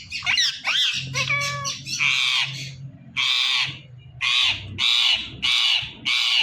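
Indian ringneck parakeet calling: quick warbling whistled notes, then a run of about six harsh squawks, coming about twice a second toward the end.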